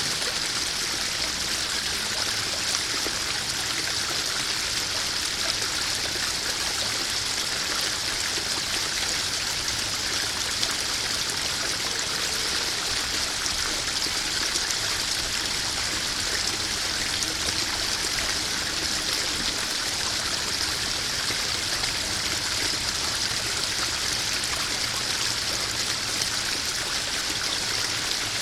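Small garden waterfall spilling into a koi pond: a steady splashing and trickling rush of water that holds even throughout.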